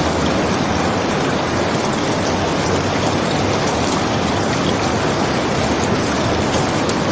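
Steady rain falling, an even, unbroken hiss with a full low body.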